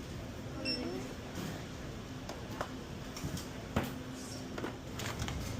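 Busy store background: a steady low hum and murmur with faint distant voices, a brief high beep about a second in, and a few sharp clicks or knocks.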